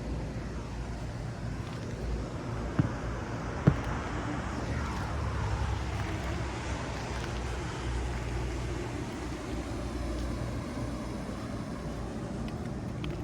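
Road traffic outside: a steady low rumble with a vehicle passing, swelling and fading over the middle, and two sharp clicks about three and four seconds in.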